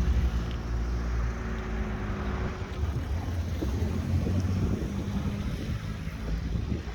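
Low, steady hum of a Mitsubishi Triton's 2.4 VGT turbodiesel, likely idling, with wind rumbling on the microphone. The even engine tone is clearest in the first three seconds, then turns rougher and noisier.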